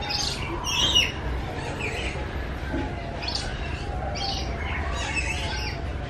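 Birds chirping: many short, high calls in quick succession, the loudest cluster about a second in, over a steady low rumble.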